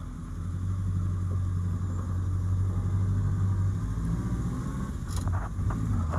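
Engine of a 68-year-old car running on the move, heard from inside the cabin, getting louder about half a second in. A few short clicks or knocks near the end.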